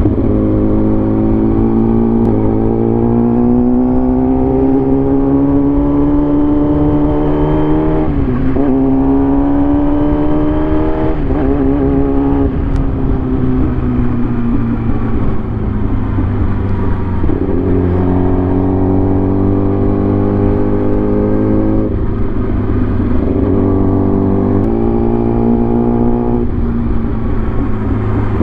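Vehicle engine running under load, its pitch climbing as it revs and dropping suddenly at gear changes about eight and eleven seconds in, then easing off to a lower, steadier note.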